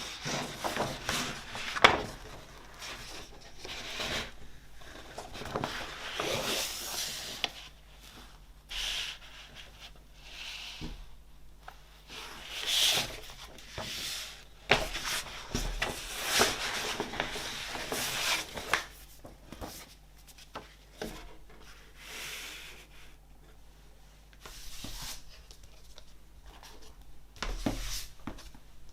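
Hands handling a vinyl record's packaging: irregular rubbing, sliding and rustling, with a few sharp taps, the sharpest about two seconds in.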